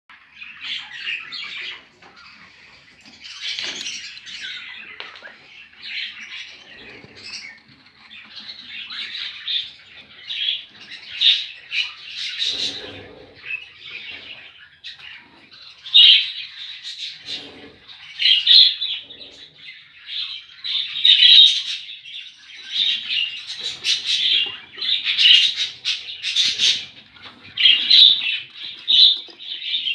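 Budgerigars chirping and chattering in quick, scratchy calls with no real break, growing louder in the second half, with a few soft rustles.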